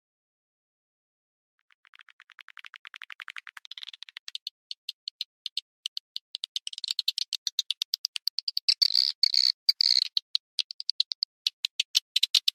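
Swiftlet calls, a lure recording: after about two seconds of silence, a fast train of clicking chirps starts up, speeds up and grows louder into dense, high twittering.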